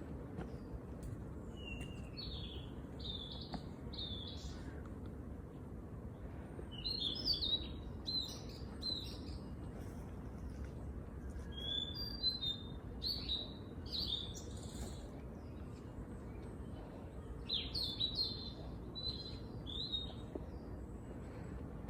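Small songbirds chirping and calling in short high bursts, coming in clusters every few seconds, over a steady low background noise.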